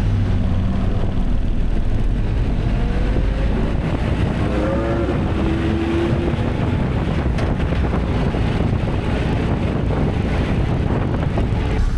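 Steady low engine rumble from a vehicle. A brief rising pitched tone comes in around the middle.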